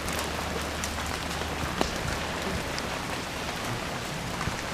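Steady rain falling, with scattered single drops ticking on nearby surfaces.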